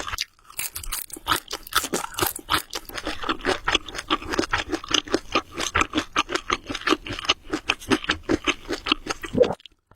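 Close-miked eating sounds of a person chewing spicy carbonara Buldak noodles: a rapid run of wet mouth clicks and crunches, several a second, breaking off briefly near the end.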